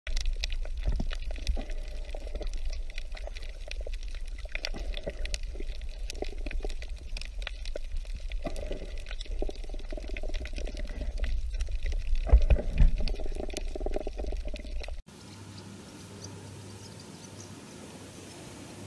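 Water heard through an underwater recording: a low rumbling wash of moving water with many small clicks and crackles. It cuts off abruptly about fifteen seconds in, giving way to a quieter, steady outdoor background hum.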